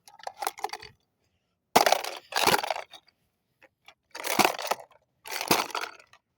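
A toy microwave being smashed open, struck four times with cracking and breaking of its casing.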